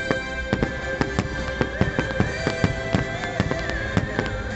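Aerial fireworks shells bursting in quick succession, about four or five sharp bangs a second, over music with long held notes.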